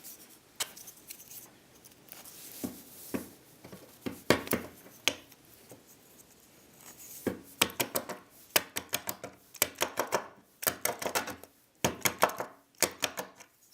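Drilled blocks of 2x4 wood being wiggled and pushed onto a metal rod: scattered knocks and scrapes of wood on metal, then a quick run of clicks and rattles from about seven seconds in.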